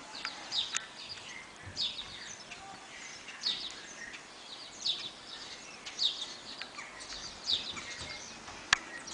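A bird chirping over and over: short high chirps, each falling in pitch, about one every second and a half, over a faint steady hiss. A single sharp click comes near the end.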